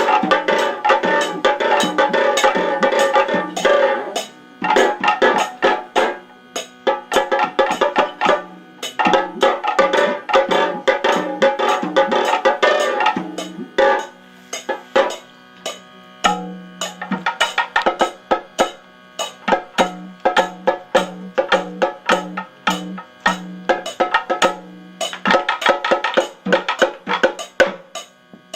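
Drum-led percussion music, presumably for Kathakali: fast, steady drum strokes throughout, with fuller passages of ringing, wavering tones near the start, in the middle and near the end.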